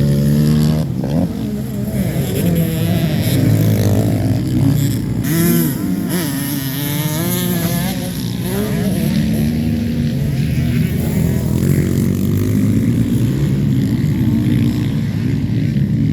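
Motocross bikes racing, their engines revving up and down as they accelerate and shift. A few seconds in, one bike revs high and climbs in pitch, louder than the rest.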